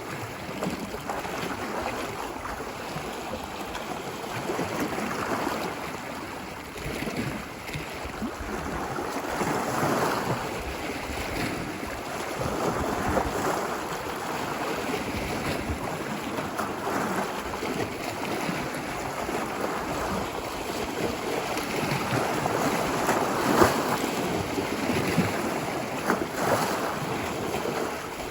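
Ocean waves washing ashore on a beach: a continuous surf hiss that swells and eases every few seconds as waves break and run up.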